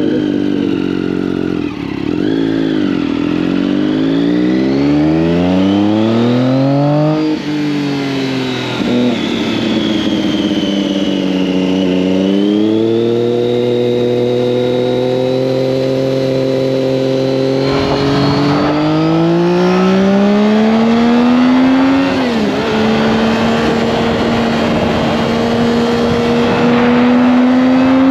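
Triumph Daytona 675's inline three-cylinder engine pulling hard under acceleration, revs climbing and dropping sharply at upshifts about seven seconds in and again past twenty seconds, with a short easing-off in between.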